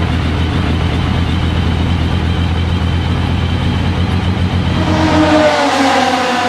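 Porsche 935 K3's turbocharged flat-six race engine idling with a pulsing, uneven beat. About five seconds in the low idle drops away and a higher-pitched sound takes over.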